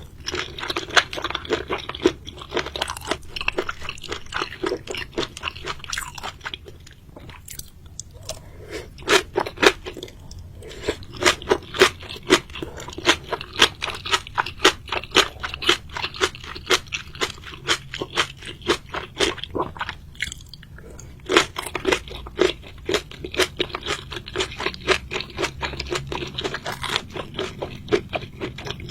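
Close-up chewing and crunching of seafood, a rapid run of sharp crunches with a couple of brief pauses.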